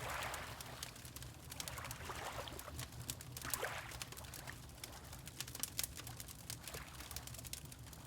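Water lapping in a few soft swells, near the start and around two and three and a half seconds in, with a wood fire crackling in small sharp snaps throughout.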